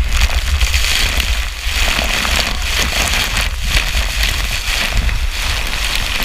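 Water rushing and spraying around a rider sliding down a water-park body slide, with wind buffeting the microphone as a low rumble.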